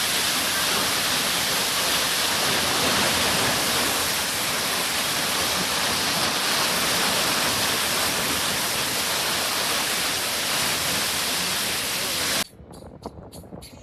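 Waterfall rushing: a steady, loud noise of falling water. It cuts off abruptly near the end, giving way to a much quieter passage with a few clicks.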